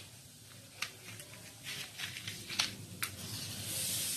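A handful of light clicks and taps as the fire for a Stirling engine fan is being lit, then a steady hiss that starts near the end, fitting a flame catching.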